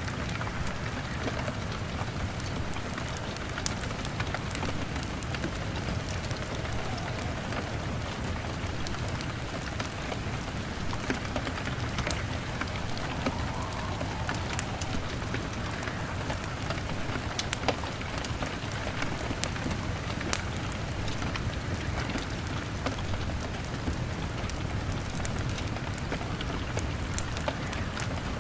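Steady rain pattering on a window, mixed with a crackling fire: a constant hiss of rain with many sharp pops and crackles scattered throughout.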